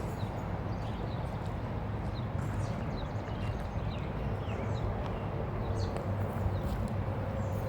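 A train rolling past: a steady low rumble with irregular clicks and clacks from the wheels on the rails.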